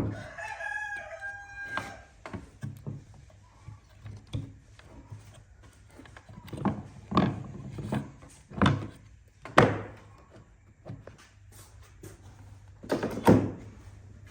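A rooster crows once, a call of about two seconds at the start, followed by a series of irregular knocks and thuds.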